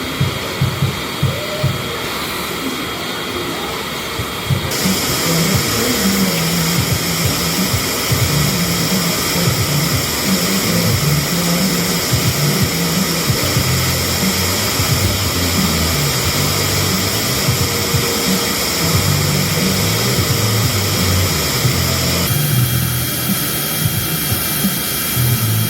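Automatic car wash air dryers blowing on the car, a loud steady rush that strengthens about five seconds in and eases near the end, with music with a stepping bass line playing over it.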